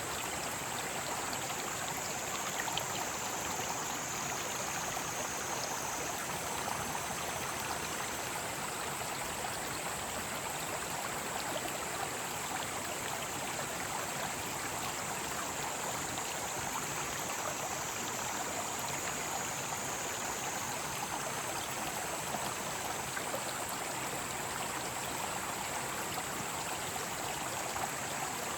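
Mountain stream flowing steadily, with cicadas singing in a continuous high drone; a second, slightly lower cicada song joins twice and fades.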